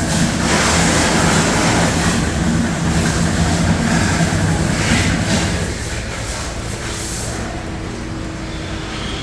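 A motor runs with a steady low hum under a loud hiss from a jet, as in engine washing. The hiss cuts off about seven seconds in, and the hum grows quieter a little before that.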